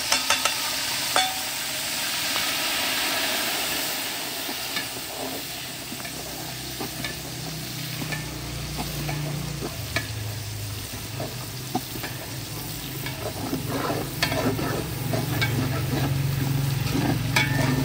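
Ground ginger and garlic frying in hot ghee in a large metal pot: a steady sizzle, louder in the first few seconds as the ginger goes in, with a flat metal spatula stirring and scraping against the pot in scattered clicks.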